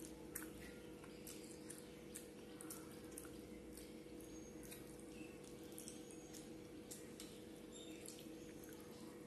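Faint wet mouth clicks and smacks from someone chewing food eaten by hand, scattered irregularly over a steady low hum.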